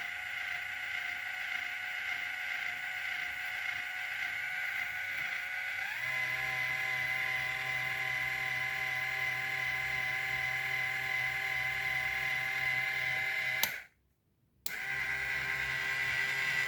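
Small DC motor of a homemade toy washing machine running with a steady high whine. It settles to a slightly higher pitch about six seconds in. Near the end it cuts off with a click for under a second, then runs again.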